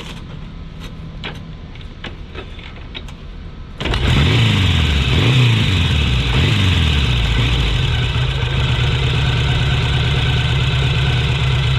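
1000 cc motorcycle engine starting about four seconds in after a few clicks, revved up and down a few times, then settling into a steady idle.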